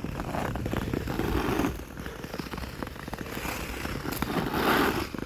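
Ice skate blades scraping and gliding over a street coated in solid ice: a steady crackling scratch full of small clicks.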